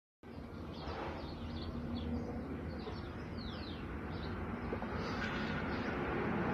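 Small birds chirping, a string of quick falling chirps, over a low outdoor rumble that grows louder toward the end. The sound cuts in abruptly just after the start.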